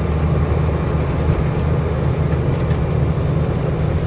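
A 10-ton pickup truck's engine droning steadily under load with road and tyre noise as the truck drives along a highway, heard from the driver's cab.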